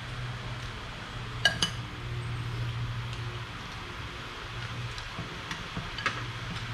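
Cutlery clinking against ceramic dishes: two quick ringing clinks about a second and a half in and another near the end. A steady low fan hum runs underneath.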